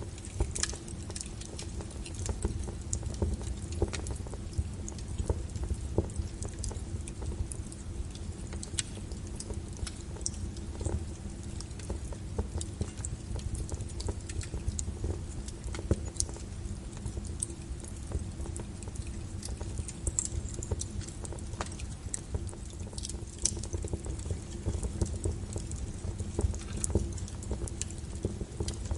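Wood logs burning in a fireplace, crackling with irregular sharp pops and snaps over a low steady rumble of the flames.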